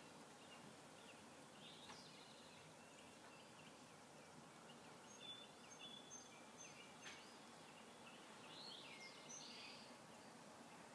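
Faint birdsong: several birds chirping, with a few thin held whistles about halfway through and a busier flurry of calls near the end, over a steady hiss.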